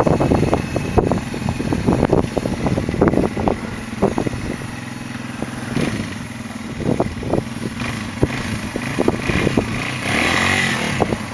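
Dirt bike engine running under load on a steep rocky climb, its loudness surging up and down with the throttle, with many sharp knocks and clatter scattered throughout.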